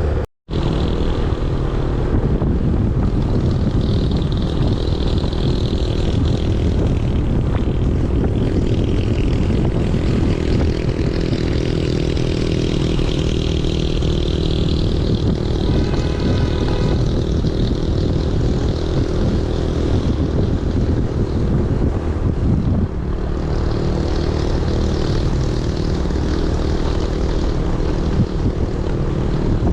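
Small motorbike engine running at a steady cruising speed of about 35 km/h, with wind rushing over the microphone. A short beep sounds about halfway through.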